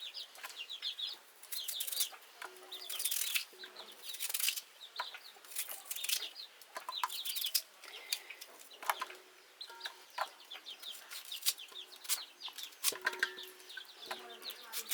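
Chickens clucking, with many short, high chirps and scattered clicks and knocks.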